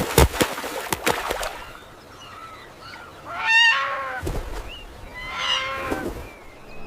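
A clatter of sharp clicks at the start, then two loud harsh bird calls about two seconds apart, with faint short chirps between them.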